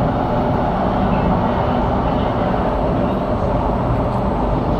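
Inside an SMRT C751B train running between stations: a steady rumble of the wheels on the rails and running gear, with a few faint steady tones over it.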